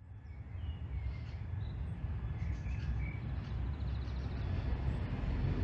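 Outdoor forest and lakeside ambience: a few faint, short bird chirps over a steady low rumble, fading in at the start.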